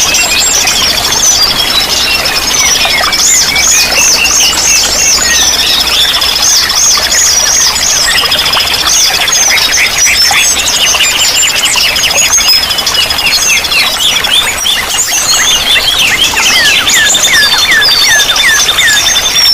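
Several songbirds singing at once: long, fast, high trills and rapid chirps and sweeping whistles, over a steady hiss of running water.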